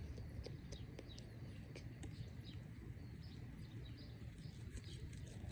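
Small birds chirping: many short, quick chirps, several a second, over a steady low background rumble.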